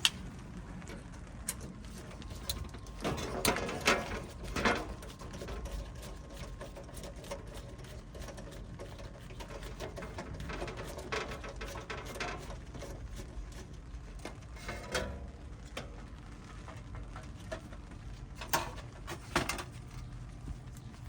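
Hand work on the heater's wiring: scattered clicks and rustles of a screwdriver and wires, with a few louder bursts of handling noise.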